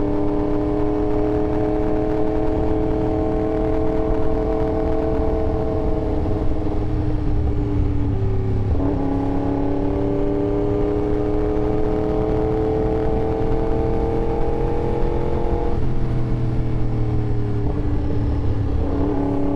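Yamaha R1 inline-four motorcycle engine running under way, its note drifting slowly in pitch, with two brief breaks where the pitch steps down, about nine seconds in and again near sixteen seconds.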